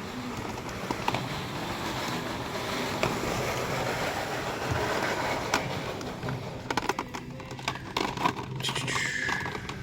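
Scraping and rustling, then a run of light clicks about seven seconds in.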